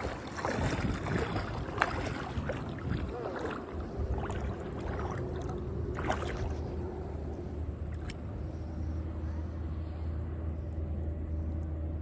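Splashing footsteps of people wading through shallow seawater, with a steady low engine hum coming in about halfway through.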